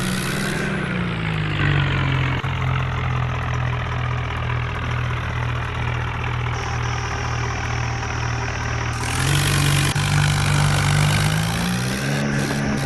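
Swaraj 841 tractor's diesel engine running. About a second in the revs drop to a steady lower note, then rise again twice in the last few seconds.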